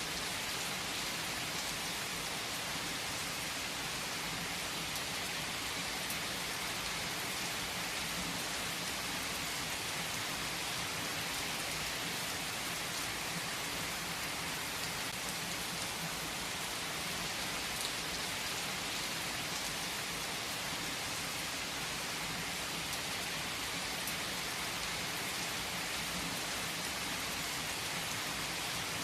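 Steady rain falling and pattering on surfaces, an even unbroken hiss with scattered individual drop ticks.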